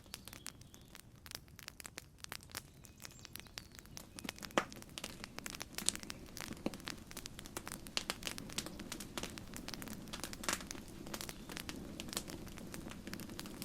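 Wood campfire crackling, with frequent sharp pops and snaps over a low rush of flames that grows a little stronger about halfway through.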